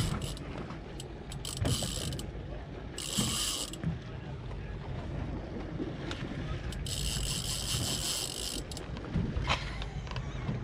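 Fishing reel buzzing in three spells, the longest about two seconds, as a hooked fish is fought on a jigging rod, over a steady low rumble.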